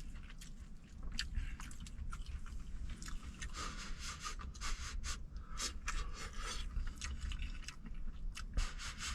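A person chewing a mouthful of claypot rice with cured sausage close to the microphone: a run of irregular small wet clicks and crackles.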